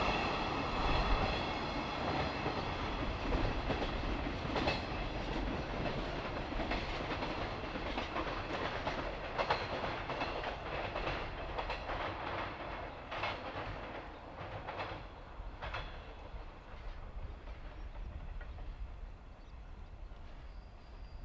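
Container wagons at the tail of a freight train rolling away, their wheels rumbling and clicking over the rail joints. The sound fades steadily as the train recedes, with a scatter of sharp clicks in the middle.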